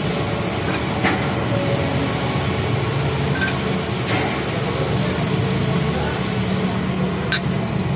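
Steady low rumbling background noise, with short clicks about a second in, about four seconds in and near the end.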